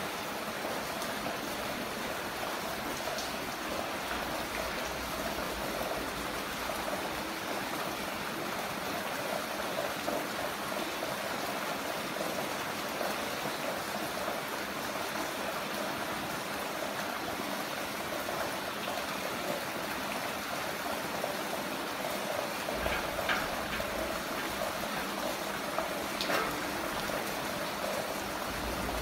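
Heavy rain falling, a steady hiss of water with a couple of brief louder splashes near the end.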